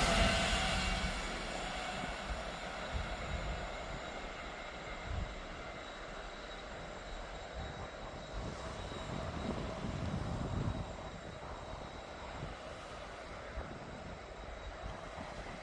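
A passing train fading into the distance, its noise dying away over the first few seconds, then a faint, uneven low rumble.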